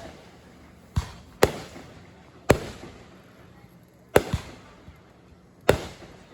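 Fireworks going off: six sharp booms at irregular intervals, two of them close together near the middle, each trailing off quickly.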